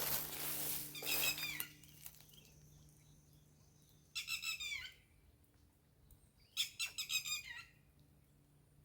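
Two short bursts of high, chirping animal calls, each a quick run of falling notes, about four seconds in and again near seven seconds, after a noisy hiss that stops about two seconds in.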